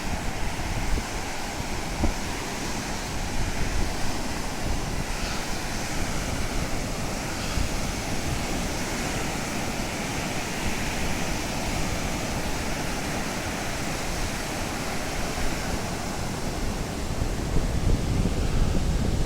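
Sea surf washing on the beach, with wind buffeting the microphone in low, gusty rumbles that grow a little stronger near the end.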